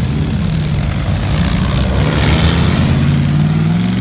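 A car engine running loud, with a short hiss a little past the middle. Its pitch climbs in the last second as the engine revs up.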